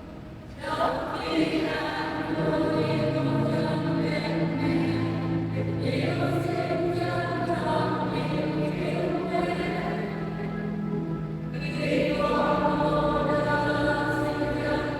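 Choir singing a hymn, with the massed voices starting about half a second in.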